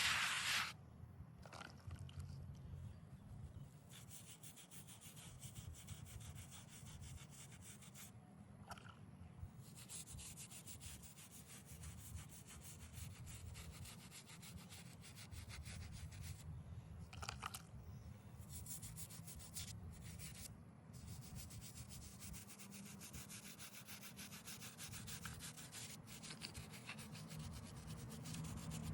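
Faint, continuous rubbing on the face of a stone headstone as it is cleaned and restored, worked back and forth in quick, close strokes.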